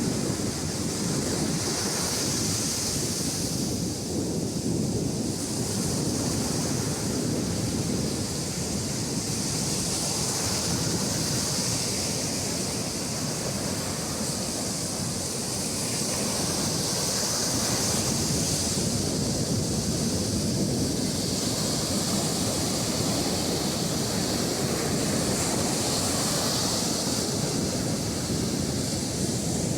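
Sea surf washing onto a sandy beach: a continuous rushing wash that swells every seven or eight seconds as waves break.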